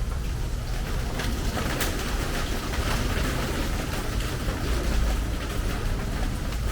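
Steady rain falling on a metal porch roof: a dense patter of drops over a steady low rumble.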